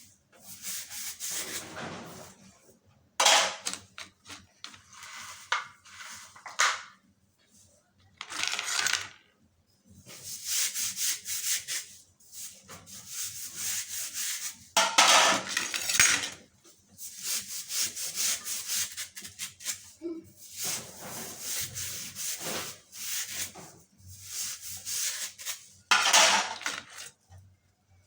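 A series of rubbing or scraping strokes, each lasting about a second or two, with short pauses between them.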